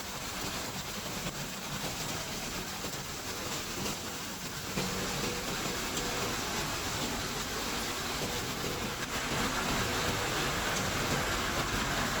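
Crushing machinery on a refrigerator recycling line running with a steady mechanical din. The din grows a little fuller and lower about five seconds in.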